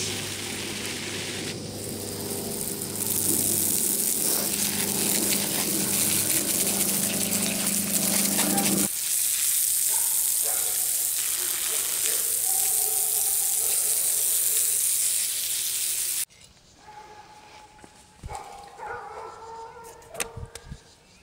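Garden hose with a spray nozzle shooting a hard, steady stream of water over freshly dug root vegetables to rinse off loose dirt; the spray shuts off suddenly about sixteen seconds in.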